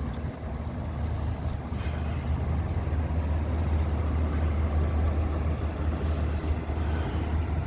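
Chevrolet Silverado 2500 HD pickup engine idling steadily, a low hum that slowly grows a little louder.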